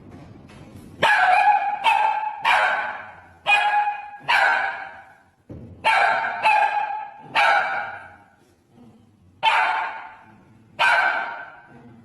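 A dog barking about ten times in short bursts, with pauses of a second or two between some barks. Each bark trails off in an echo.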